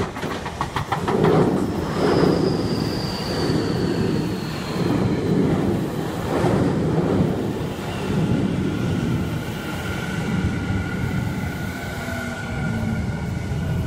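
Tokyu stainless commuter electric train running past close by: a quick rattle of wheel clicks at first, then a steady rolling rumble. A high whine falls slowly a couple of seconds in, and a steady high squeal holds through the last few seconds.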